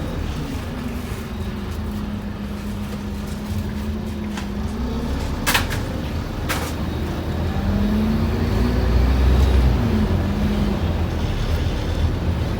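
Scania N230UD OmniCity double-decker bus's five-cylinder diesel engine heard from on board, its note dipping and then rising, with a heavier low rumble swelling around the middle as it pulls harder. Two sharp clicks come about five and a half and six and a half seconds in.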